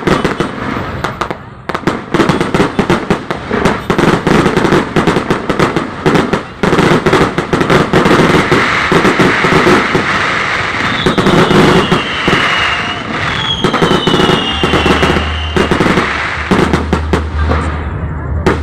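Fireworks display: a dense, rapid string of bangs and crackling, with two whistles gliding down in pitch about two-thirds of the way in.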